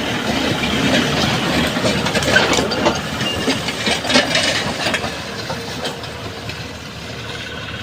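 Small tractor running while ploughing, a dense mechanical clatter and rumble that eases a little in the second half.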